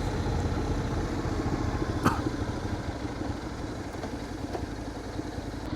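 Motorcycle engine running at low speed, with a single sharp click about two seconds in.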